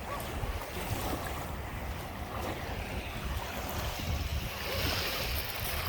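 Small Lake Michigan waves washing onto the beach, a wash swelling louder about four to five seconds in, with wind buffeting the microphone in a low rumble.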